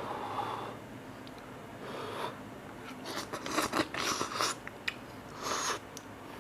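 Someone eating cup noodles: a series of short slurping and chewing mouth sounds with small clicks, the busiest stretch about halfway through.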